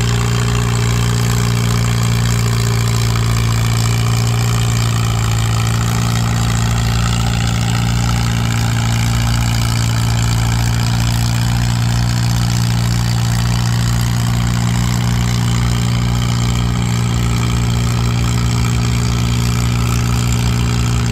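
Antique tractor engine running at a steady speed, a constant low drone that holds one pitch throughout.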